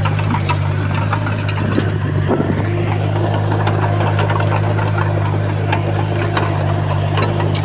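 Heavy construction machine's diesel engine running at a steady speed, with frequent short clicks and clanks over it.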